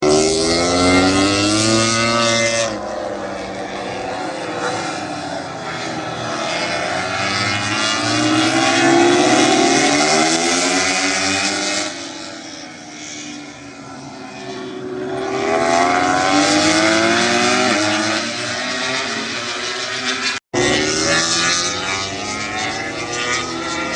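MotoGP racing motorcycles passing at speed, several at once, their engines revving up and down through the gears. Engine sound swells and fades as bikes go by, with an abrupt cut about 20 seconds in.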